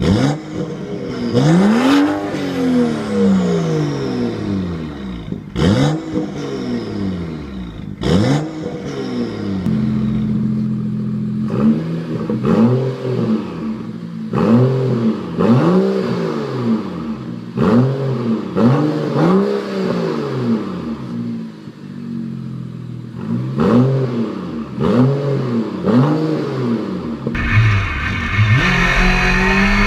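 BMW 135i turbocharged straight-six revved over and over, the pitch climbing and dropping back with each blip, with sharp cracks between some revs. Near the end it gives way to a steadier run.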